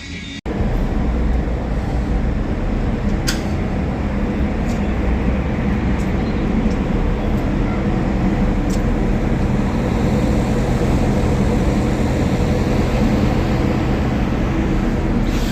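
Steady rumble of a vehicle under way, with a low, even engine hum and a few faint clicks.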